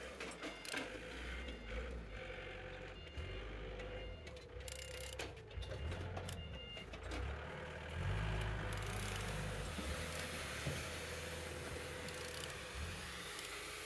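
Volkswagen 1.9 TDI (ALH) four-cylinder diesel engine running on test, with a low rumble and a steady whine. There is scattered clicking in the first half, and the sound grows louder and fuller about eight seconds in. The engine is running well, with no fault heard.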